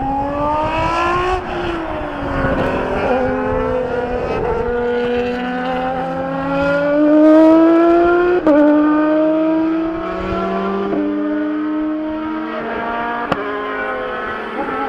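Supercar engine accelerating hard through the gears. Its pitch climbs in long pulls and drops back at each gear change, several times, with a sharp crack at some of the shifts.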